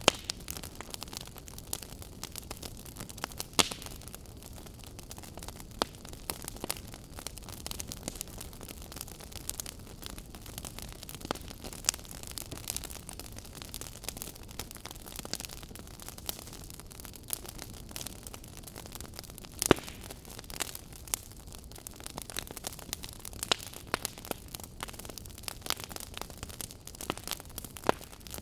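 Burning firewood crackling and popping: a steady low hiss with irregular sharp snaps, a few much louder pops, the loudest about two-thirds of the way through.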